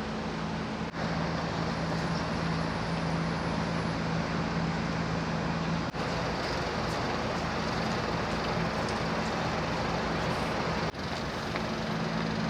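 Steady road traffic and engine noise with a low, even hum. It breaks off briefly about a second in, around six seconds in and near the end.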